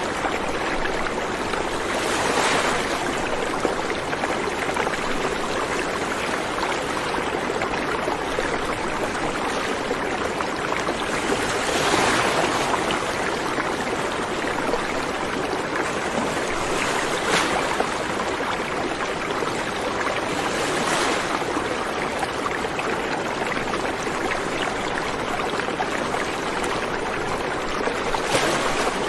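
River water flowing and rushing steadily, with a brief louder surge every several seconds.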